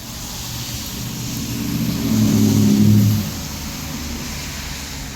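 A car passing on a wet road: engine note and tyre hiss rise to a peak about two to three seconds in, then fade, over the steady hiss of rain.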